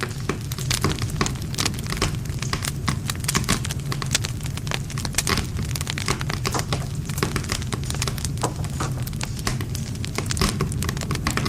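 Wood campfire crackling, with dense, irregular sharp snaps and pops of burning wood over a steady low rumble.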